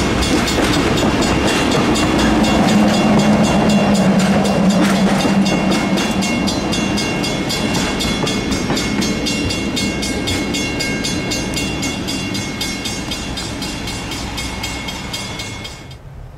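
Diesel-hauled train rolling past on the rails, loudest a few seconds in and then slowly fading as it moves away. The sound drops off abruptly just before the end.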